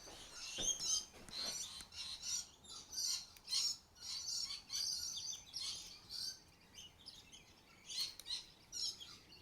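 Birds chirping and calling, many short high chirps one after another. There are a couple of faint knocks in the first second and a half.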